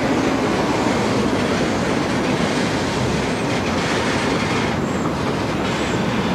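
A train rolling by on the track: a steady, loud rumble and rattle of wheels and cars, with faint brief high wheel squeals about five seconds in.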